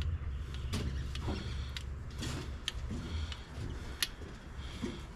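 Scattered light metallic clicks and short knocks of hand work on a fitting of the Cat 318B excavator, over a steady low rumble.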